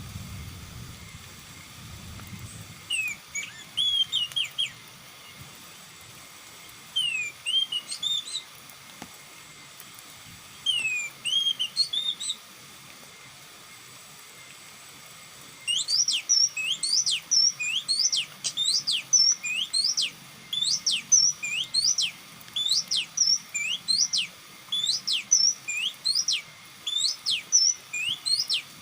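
Oriental magpie-robin (kacer) calling: scattered sweeping whistled notes at first, then from about halfway a fast, even run of sharp rising whistles, two or three a second.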